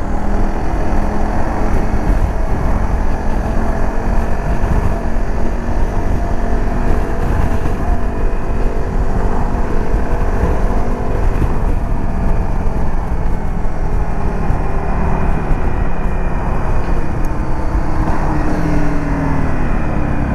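Dirt bike engine running at road speed, under heavy wind rush on the microphone. The engine's pitch drops over the last few seconds as the bike slows.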